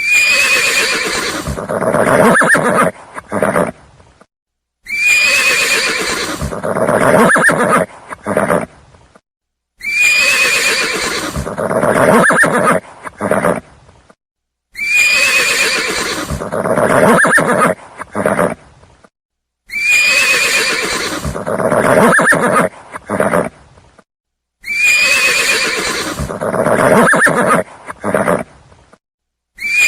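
Horse neighing: the same whinny played over and over about every five seconds, each starting with a high squeal that falls away into a rougher, lower call.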